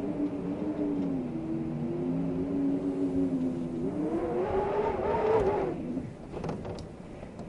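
Howling wind with a wavering, pitched moan over a hiss. It swells and rises in pitch about four seconds in, then dies down near six seconds.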